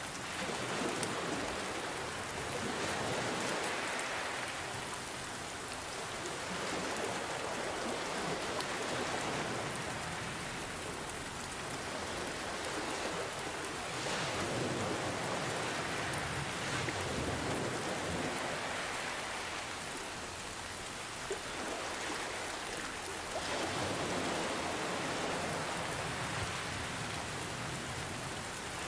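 Steady rain falling, mixed with gentle ocean waves. The hiss swells and ebbs slowly every several seconds.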